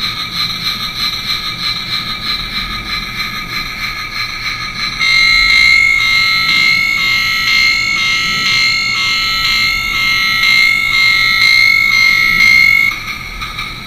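Electronic train sound effects from a diecast toy locomotive's sound chip, tinny through its small speaker: a fast pulsing chug at first, then about five seconds in a louder, steady high tone over a regular beat for about eight seconds before dropping back.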